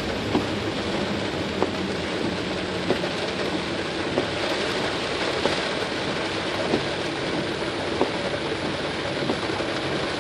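Heavy rain beating on a car's windshield and roof, heard from inside the cabin, with a short knock about every 1.3 seconds from the windshield wipers' strokes.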